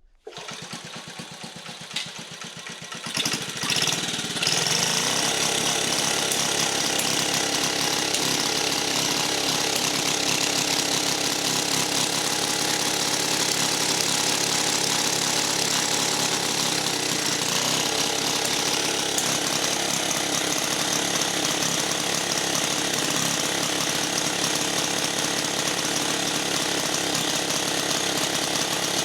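1950 REO small gasoline engine firing up: a few seconds of cranking and catching, a rising rev about four seconds in, then running steadily at high speed on its cleaned spark plug, which was meant to cure its breaking up at high revs.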